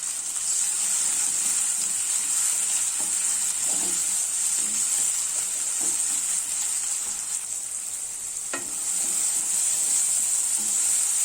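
Chopped onions and tomatoes sizzling steadily in hot oil in a pan, stirred with a spoon that knocks against the pan now and then, with one sharper click late on.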